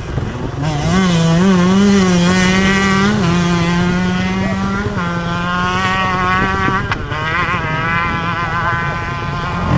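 KTM 125 EXC two-stroke single-cylinder enduro motorcycle engine held at high revs, its pitch wavering a little in the first seconds and then running steady. There is a sharp click about seven seconds in.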